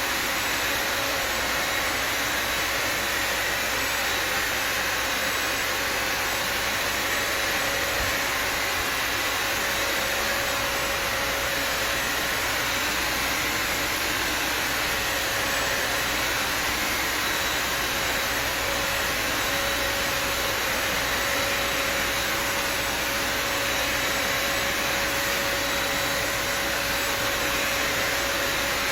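Bissell Symphony vacuum-steam mop's vacuum motor running steadily: a constant rush of air with a steady whine.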